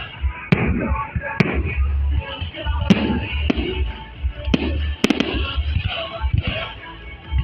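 Festive fireworks salute: sharp bangs of bursting shells at uneven intervals, about one every second or so, over loud music with a thumping bass.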